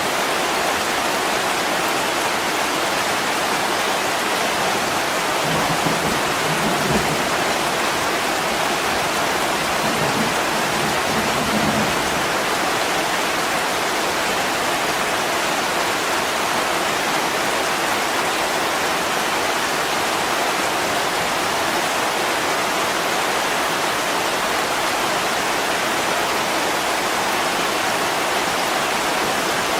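Heavy rain falling steadily on a window, a dense even hiss. A few soft low thumps come between about five and twelve seconds in.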